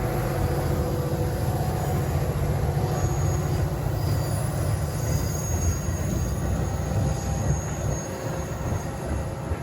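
A train rolling past on the rails with a steady low rumble, and a faint high wheel squeal in the middle of the pass.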